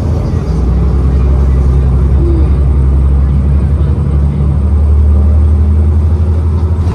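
New Flyer XDE40 diesel-electric hybrid bus running under way: a loud, steady low drone with a few level tones above it, swelling slightly in the first second and then holding steady.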